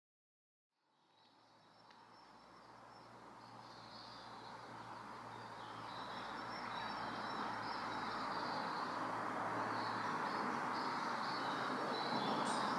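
Outdoor forest ambience fading in from silence and growing steadily louder: an even rushing background with high, insect-like chirring.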